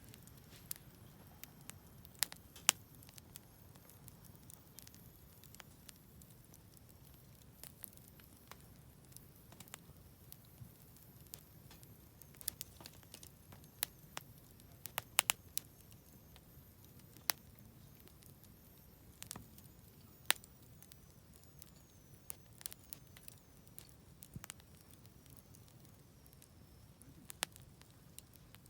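Wood fire crackling: scattered sharp pops and snaps from burning firewood, irregular, a few louder cracks among many soft ticks, over a faint low steady rumble.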